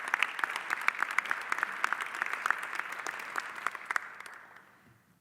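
Audience applauding an award recipient, a steady patter of many hands clapping that dies away about four to five seconds in.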